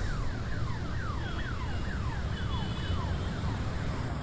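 An electronic siren or alarm giving a fast repeating downward whoop, about three falling sweeps a second, over a steady low rumble of road traffic.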